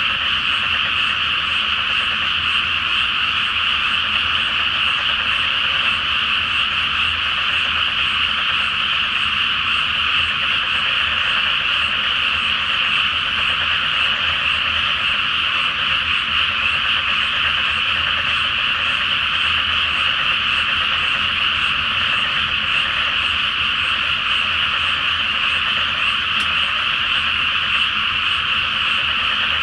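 A large chorus of frogs calling in a flooded rice paddy: many overlapping calls merged into one steady, unbroken din.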